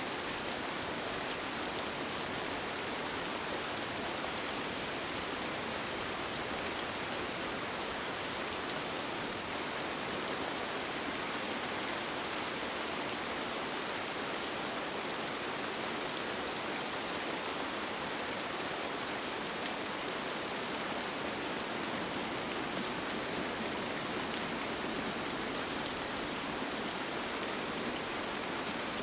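Steady, even rain with fine scattered drop ticks, heard from inside a tent.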